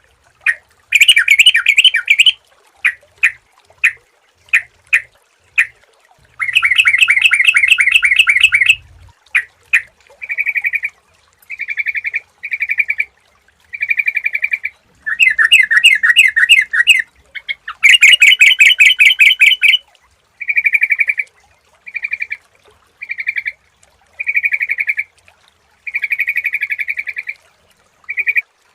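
Sooty-headed bulbul (trucukan) calling: sharp single notes in the first few seconds, then several fast chattering rattles a second or two long, alternating with short clear phrases.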